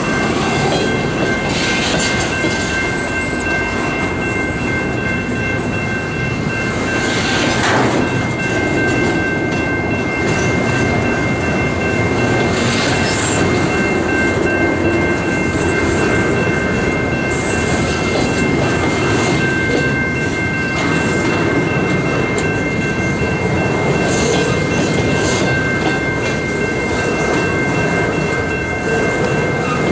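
Freight train rolling steadily past, its cars clicking over rail joints, with a thin steady high-pitched tone running above the rumble.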